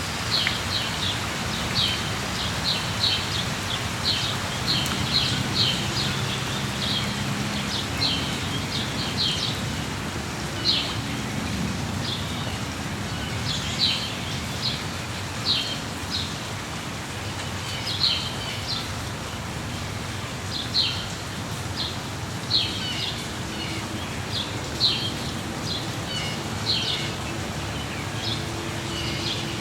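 Steady rain in a forest, with short high bird calls repeating every second or two, often two or three in quick succession.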